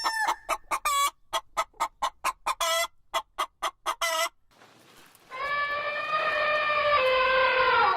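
Chicken clucking in a quick run of short notes, then a gap and one long drawn-out call of nearly three seconds, slightly falling in pitch toward the end.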